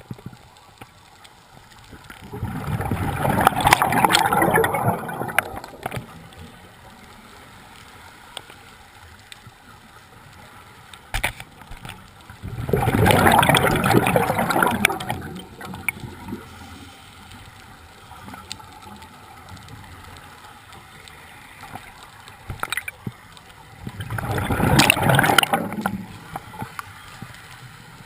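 A scuba diver's regulator exhaling: three rushing bursts of bubbles about ten seconds apart, each lasting about three seconds, with a quieter hiss and faint scattered clicks between breaths.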